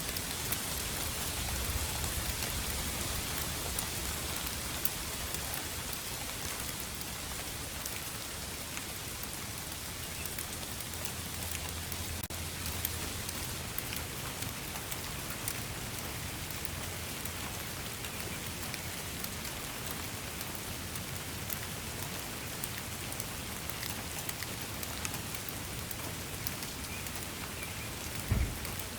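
Steady rain falling, a constant hiss with many individual drops ticking through it. A brief low thump sounds near the end.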